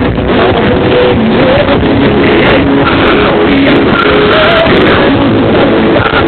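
Loud music with a sung melody blasting from a paredão, a car-mounted wall of loudspeakers, played at full volume.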